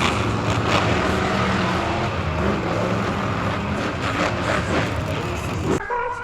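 Monster truck engines running loud and rough. The sound cuts off abruptly near the end.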